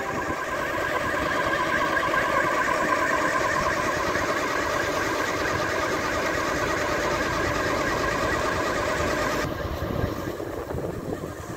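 Tractor engine running steadily, driving the tanker's PTO pump. About nine and a half seconds in, the sound changes abruptly and becomes quieter and duller.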